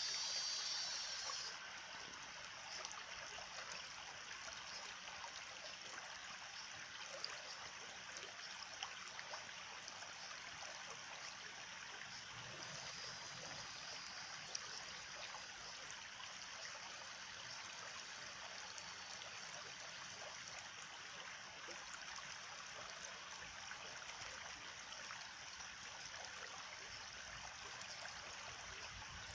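A small stream trickling and gurgling steadily. A high, buzzing trill sounds over it in the first second or two and comes back faintly about halfway through.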